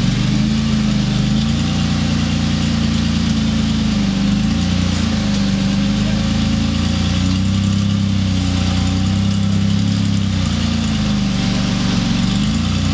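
Off-road rock crawler's engine running steadily at low revs, its note rising and falling slightly as the throttle is worked.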